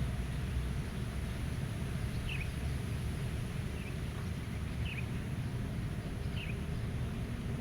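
Steady wind rumble over a meadow, with a bird giving four short, high chirps a second or so apart.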